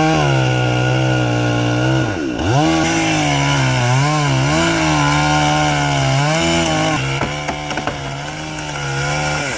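Chainsaw running hard in a cut, its pitch dipping sharply about two seconds in and then wavering as the chain bogs and recovers under load. Near the end the engine note drops back and a few sharp clicks are heard.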